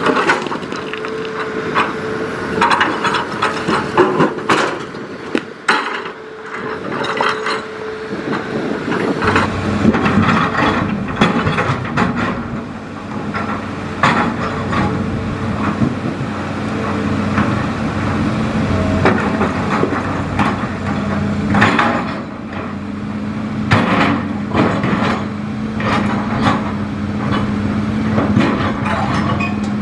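Hitachi Zaxis hydraulic excavator working: its engine runs with a steady tone that drops to a lower, heavier note about nine seconds in, under repeated knocks and clatter of the machine at work.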